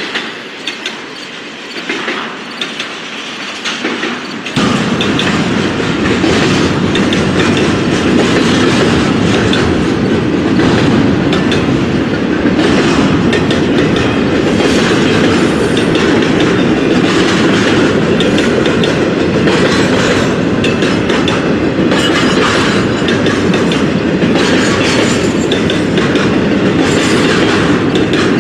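A train passing close by, its steel wheels clattering steadily over the rails. The sound gets suddenly much louder about four seconds in, then stays loud.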